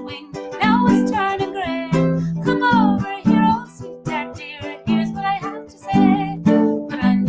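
A woman singing a traditional Irish ballad, accompanying herself on a strummed plucked string instrument, in a small room.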